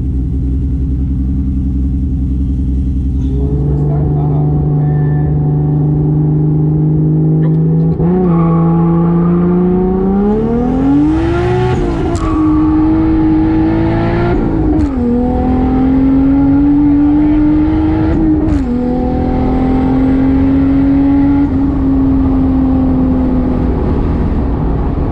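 Single-turbo 2JZ inline-six in a 1995 Toyota Soarer running steadily, then pulling hard through the gears of its R154 manual gearbox. About eight seconds in the revs climb; the pitch drops sharply at three upshifts, rising again after each. After the last shift it holds a steady note that slowly eases.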